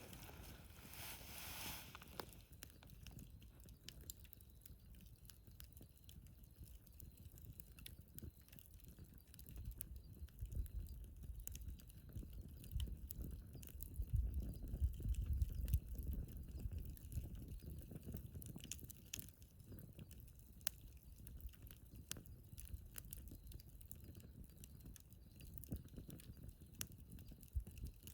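Wood fire crackling faintly in a fire stand, with scattered small pops and snaps throughout. A low rumble swells about ten seconds in and fades again a few seconds later.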